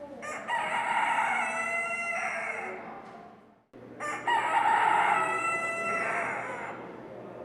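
Rooster crowing twice, each crow a long call lasting about two and a half seconds.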